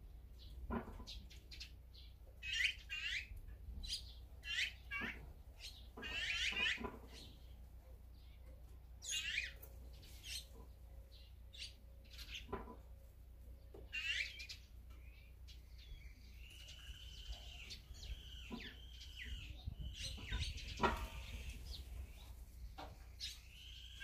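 Wild birds calling: short chirps and calls scattered throughout, then a run of repeated, longer calls in the last third.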